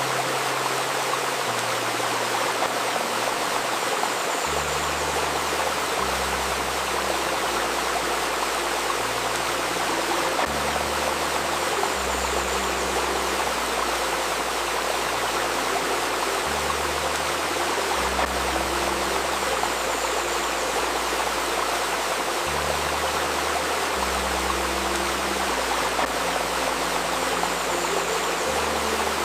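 A babbling river stream running steadily, with soft, low music notes underneath that change every second or two.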